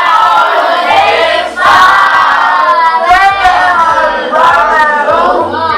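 Group of voices singing together in unison, children's voices among them, in a wavering, melodic chant.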